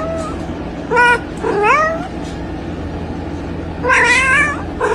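Domestic cats yowling at each other in a fight: a short call about a second in, a rising wail right after, and a longer wavering yowl near the end.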